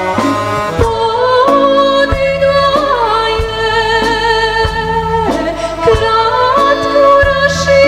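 A female singer performing a Serbian folk song, holding long notes with a wavering vibrato over an accordion accompaniment with a regular bass-and-chord beat.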